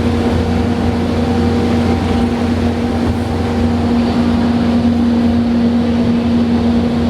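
Snowdon Mountain Railway train climbing steadily, heard from the carriage: an even engine drone with a constant hum that does not change.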